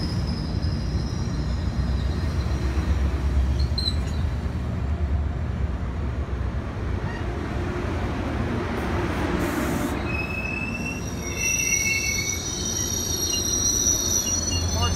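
Metrolink commuter train led by an MP36PH3-C diesel locomotive arriving at the platform, with a steady low rumble as it rolls in; from about ten seconds in, thin high squeals from the wheels and brakes as it slows.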